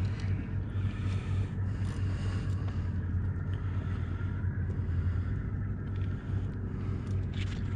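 Boat engine idling with a steady low hum, wind noise on the microphone, and a couple of brief knocks near the end.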